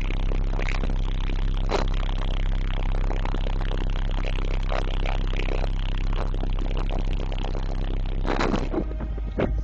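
Four 15-inch Digital Designs 500-series subwoofers in a truck's wall box playing loud, deep, steady bass, with the truck's panels rattling and buzzing along with it. The bass dips briefly near the end.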